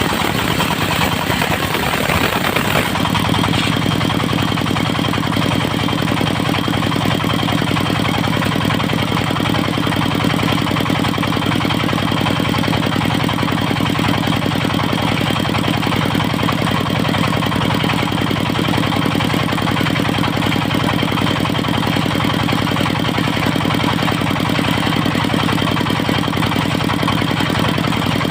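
Engine of a mobile circular sawmill running steadily. About three seconds in, a hissier sound drops away and leaves an even engine note with a faint high whine.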